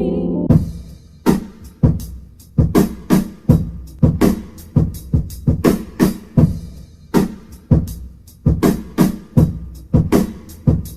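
Music: a sustained keyboard chord stops about half a second in, and a drum kit takes over with a beat of sharp, loud hits, about two to three a second.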